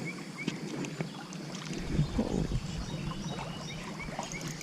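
Creek water sloshing and trickling, with scattered small clicks.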